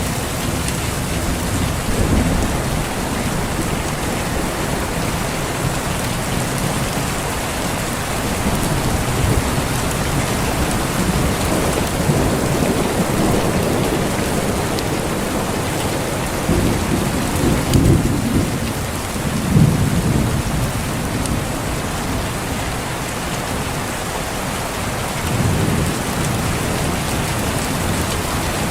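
Steady heavy rain falling, with low rolls of thunder rumbling underneath that swell several times, strongest in the second half.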